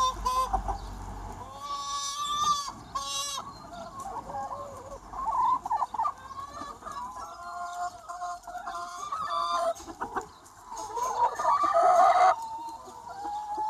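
A large free-range chicken flock clucking and calling. Short pitched calls stand out about two and three seconds in, and a louder drawn-out call, the loudest sound here, ends sharply about twelve seconds in.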